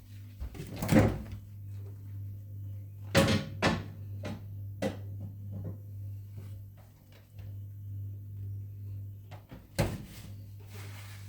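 A few sharp knocks and thumps of household things being handled, the loudest about a second in, a pair around three to four seconds in, and another near the end, over a steady low hum.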